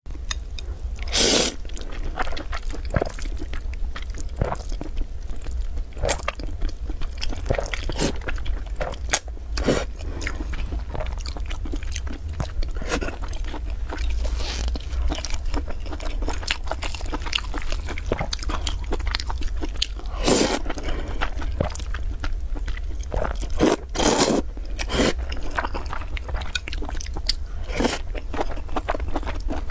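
Close-miked eating of hot dry noodles and braised pork belly: continuous chewing and biting made of many small wet clicks, with a few louder, longer mouth sounds near the start and twice in the last third, over a steady low hum.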